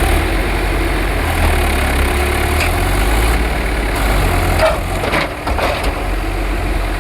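Tractor engine running steadily at a low rumble, with a few short knocks or rattles about five seconds in.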